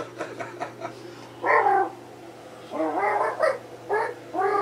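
A man imitating a cat with his voice: about four short, wavering meow-like yowls with gaps between them.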